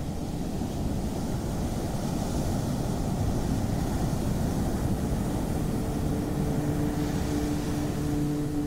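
Ocean surf: a steady, low wash of breaking waves. A soft low hum of held tones joins about two-thirds of the way through.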